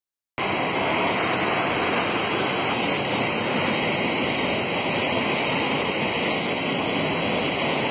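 Waterfall pouring into its pool, a steady heavy rush of water.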